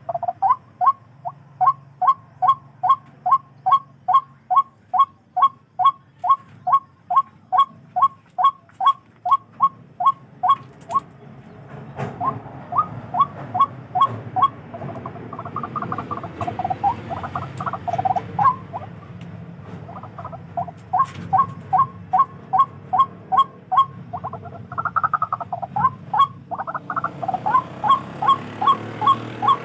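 Tikling (barred rail) calling: a long series of sharp, evenly repeated notes at about three a second. In the middle the series breaks into more irregular notes over a rising background hiss, then picks up again in runs.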